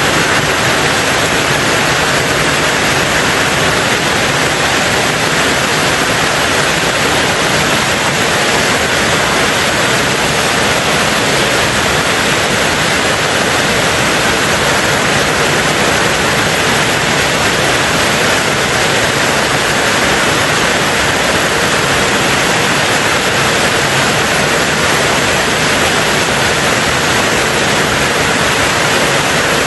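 Heavy rain on a tin roof: a steady, dense hiss with no single drops standing out.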